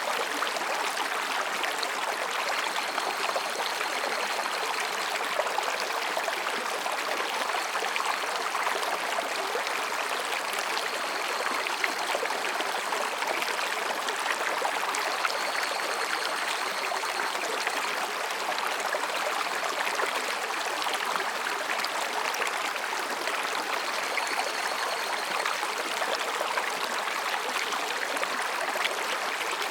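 Mountain stream rushing and babbling between rocks, a steady, even splashing. Faint, high calls of higurashi (evening cicadas) rise over it a few times and fade.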